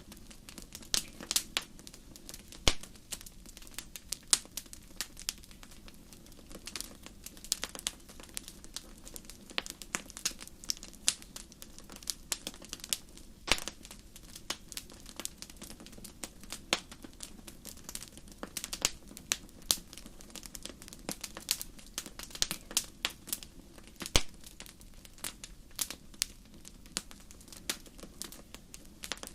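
Wood fire burning in a fireplace, crackling with irregular sharp pops over a low steady rumble of flame, a few pops louder than the rest.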